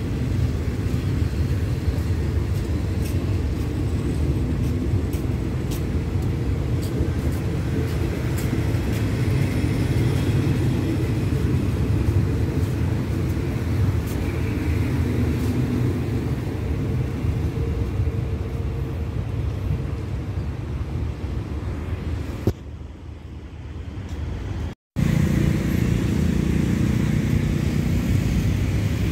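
Passenger train coaches rolling past along the platform: a steady low rumble. It fades about 22 seconds in, cuts out briefly, and a different steady low rumble follows near the end.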